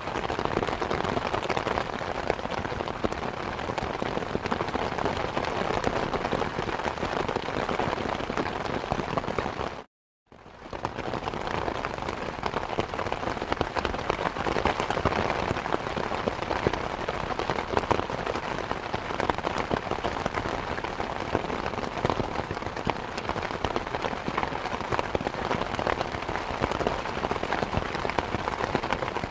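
Steady rain falling, a dense patter of many drops. About ten seconds in, the sound cuts out completely for under half a second, then comes back.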